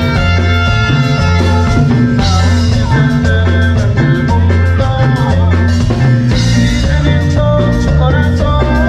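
Live cumbia band playing an instrumental passage, with a steady bass-and-drum beat under sustained melodic instrument lines.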